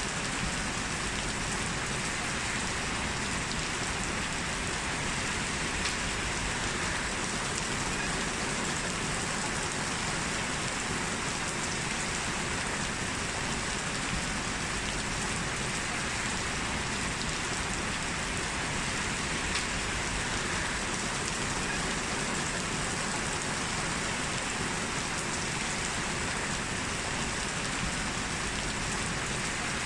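Heavy rain falling steadily: a dense, even hiss of downpour with no thunder.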